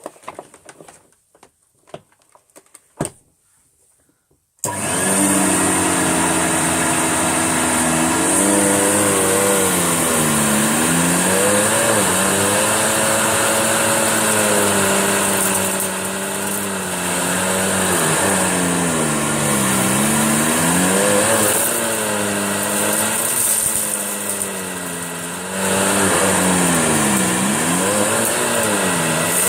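A few handling clicks, then an Electrolux Turbo 2 Super vacuum cleaner switches on about four and a half seconds in and runs while picking up a thick mess of fur, dirt and cat litter from a mat. Its motor pitch repeatedly sags and recovers as the load changes.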